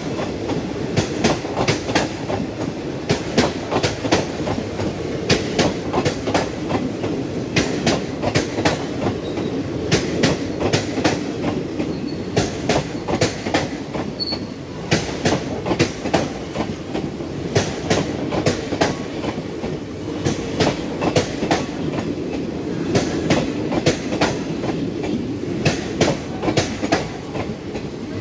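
Passenger coaches of an express train passing close by at speed. The wheels clack over the rail joints in quick groups of clicks above a steady rolling rumble.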